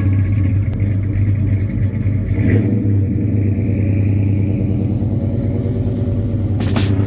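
Car engine running steadily, with some revving.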